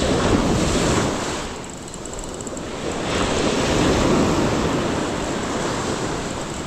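Ocean surf breaking and washing on the beach, swelling twice about three seconds apart, with wind on the microphone.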